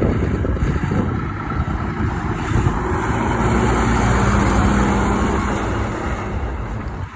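Semi truck driving past, its engine and tyre noise swelling to a peak about halfway through and fading toward the end.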